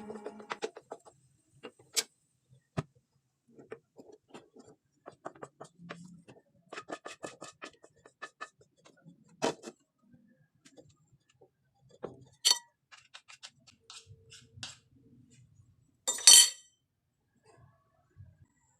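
Dishes and cutlery clinking: scattered light taps and clinks of utensils against plates, with a louder rattle about sixteen seconds in.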